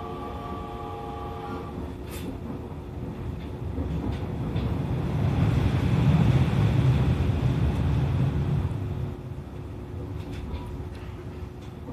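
E501 series electric train running, heard from on board: a continuous rumble of wheels on rail that swells in the middle and then eases off. A cluster of steady tones fades out about two seconds in, and a single steady tone runs underneath.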